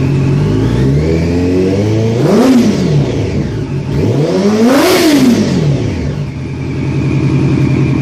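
Yamaha FZ8's inline-four engine breathing through a Two Brothers slip-on exhaust, warmed up and idling, then revved twice. The first blip peaks about two and a half seconds in, and a higher one peaks about five seconds in before it drops back to a steady idle.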